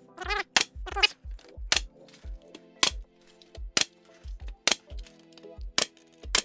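Pneumatic nail gun firing nails into a wooden frame one after another, about ten sharp shots at uneven intervals of roughly half a second to a second. Background music underneath.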